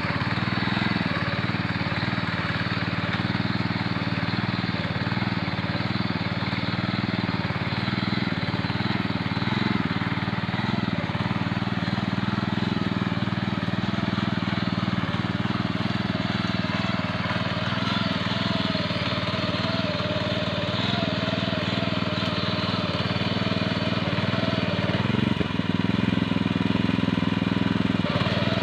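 Mini tractor's small engine running steadily while pulling a plow through the soil, with a faint higher tone joining about two-thirds of the way through.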